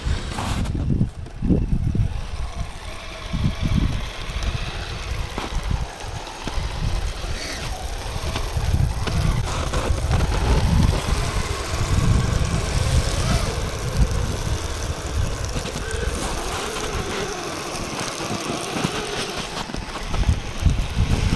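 Small electric RC tracked vehicles running, their motors giving a faint wavering whine, over a gusty low rumble of wind on the microphone.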